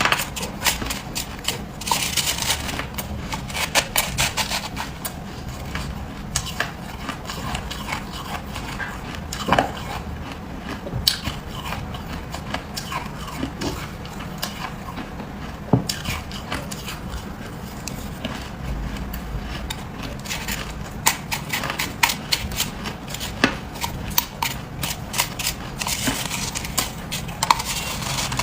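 Freezer frost being bitten and chewed: repeated crisp crunching in bursts, with sharp single snaps between them.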